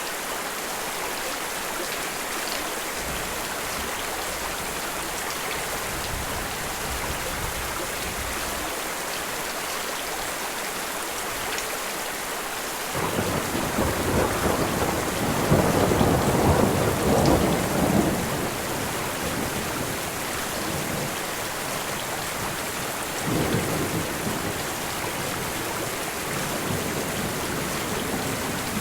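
Steady rain falling. A rumble of thunder swells up about halfway through and lasts several seconds, and a shorter rumble follows a few seconds later.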